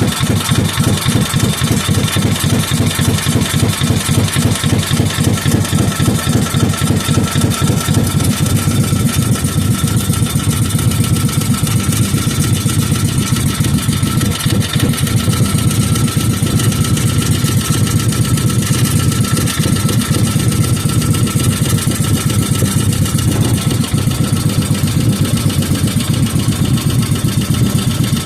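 5 hp Briggs and Stratton single-cylinder engine idling, a steady, even run of firing pulses at a nice low idle: the rebuilt engine running smoothly.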